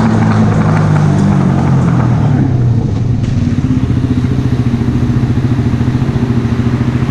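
Mash Cafè Racer 125's single-cylinder four-stroke engine running through a Megaton aftermarket exhaust. Its revs ease off in the first few seconds, and it settles into a steady, pulsing idle.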